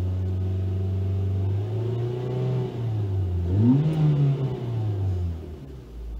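Mazda 3's four-cylinder engine revved with the throttle: it holds a steady higher idle, climbs to high revs about three and a half seconds in, then drops back as the throttle is released near the end.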